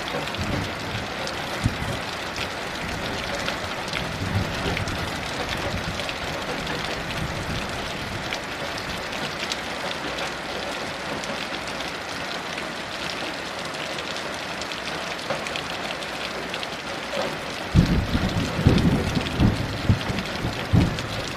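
Steady heavy rain with many small drop ticks, and a low rumble of distant thunder that swells in unevenly near the end.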